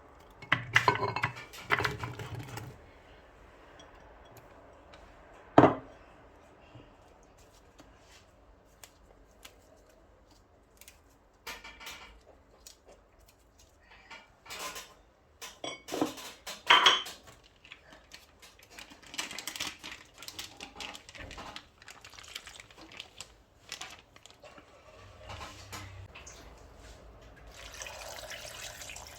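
Kitchen dishes and utensils clinking and knocking at intervals, with liquid being poured or splashing. The sharpest knock comes about six seconds in.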